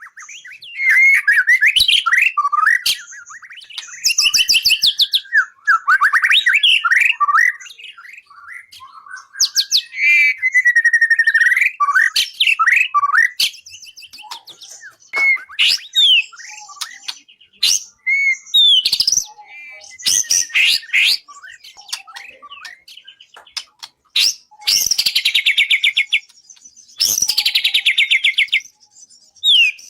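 Songbird singing a masteran, the tutoring song played to train murai for competition. It runs through varied whistled phrases and quick sliding notes, then turns to long rapid trills near the end.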